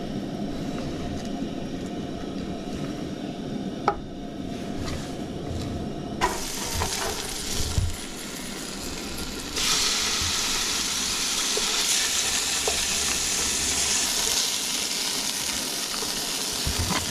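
Walleye fillet frying in a pan, sizzling with a steady hiss that gets much louder and brighter about ten seconds in. A few light knocks, like a utensil against the pan, come in the first half.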